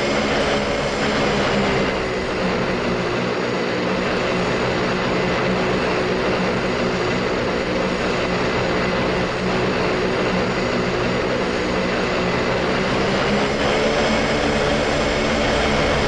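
Airplane engines droning steadily, an even rushing noise with several fixed tones held through it and no rise or fall in pitch.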